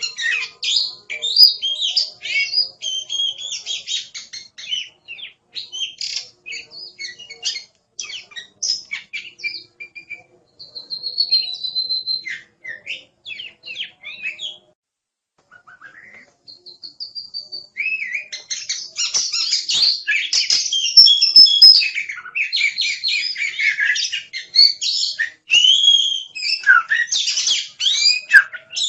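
Oriental magpie-robin (kacer) in full song: a fast, varied run of clear whistles, chirps and trills. The song breaks off for about two seconds around the middle, then picks up again more densely.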